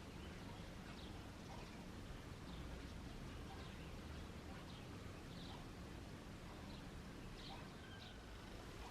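Faint bird chirps, short high notes sliding downward and spaced a second or so apart, over a steady low background hum of outdoor ambience.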